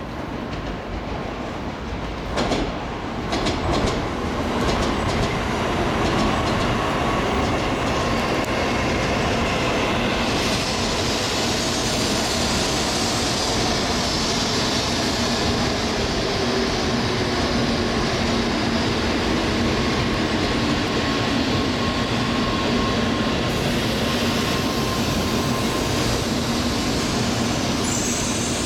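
N700A Shinkansen train pulling into a station and slowing: a run of wheel clicks over the track about two to four seconds in, then a steady rolling rumble and hiss with a faint whine that slowly drops in pitch as it decelerates.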